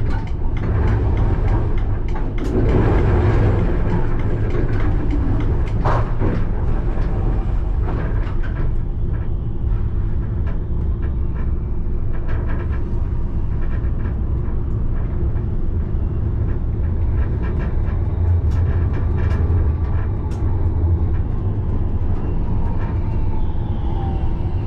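Alstom Citadis tram running on its rails: a steady low rumble, with clicks and knocks over the track in the first several seconds. Near the end a whine falls in pitch.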